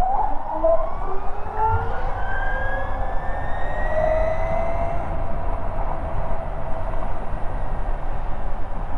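Ather 450X electric scooter's motor whining, rising in pitch over the first five seconds as it picks up speed and then holding steady, over low road and wind rumble.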